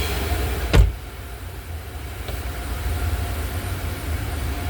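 Low, uneven rumble of wind buffeting the microphone, with one sharp knock just under a second in, after which a high hiss drops away.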